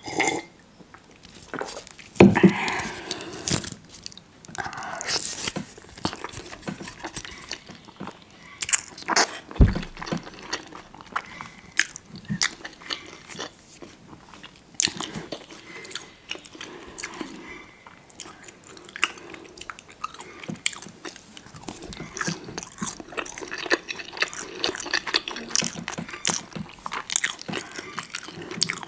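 A person biting and chewing food close to the microphone: a steady run of short, wet, crunchy clicks, with louder bites about two seconds in and near ten seconds.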